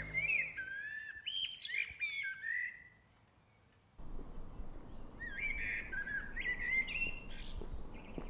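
Birds chirping in quick runs of short rising and falling notes, in two spells. The first breaks off about three seconds in. After about a second of near silence, a steady outdoor background comes in with the second spell of chirps.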